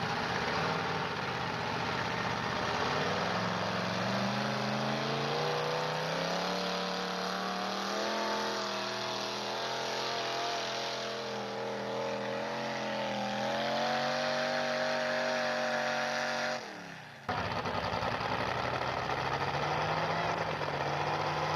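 A pulling truck's engine revving up and running hard under load, its pitch climbing over several seconds, then held high and wavering. Near the end the sound cuts out suddenly for about half a second, then engine sound returns lower and climbs again.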